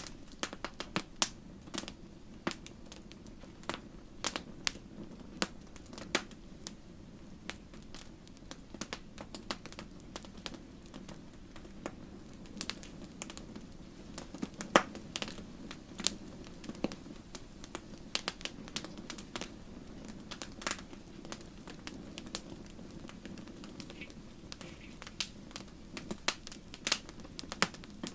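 Wood campfire burning steadily, with a low rushing of the flames under frequent irregular sharp crackles and pops.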